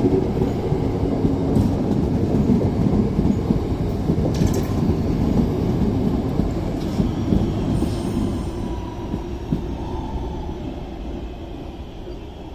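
Passenger train running along a station platform: a loud, dense rumble of wheels and traction that fades away over the last few seconds.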